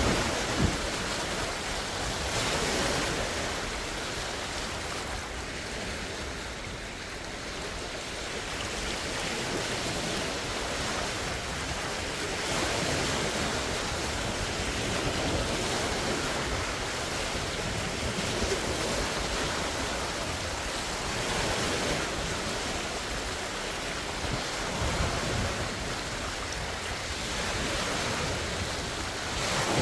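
Large lake waves washing and splashing against the shore in strong wind, a steady surf that swells and ebbs every few seconds. Wind gusts buffet the microphone now and then with a low rumble.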